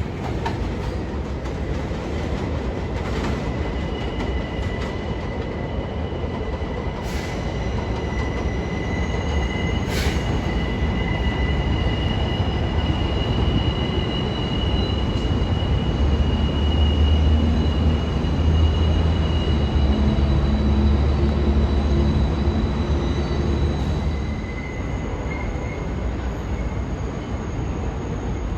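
New York City subway train running through the station, a steady rumble of wheels on rail with a high, steady wheel squeal from a few seconds in until about two-thirds of the way through, and a few sharp clicks early on. The low rumble grows heavier in the middle, then eases off a few seconds before the end.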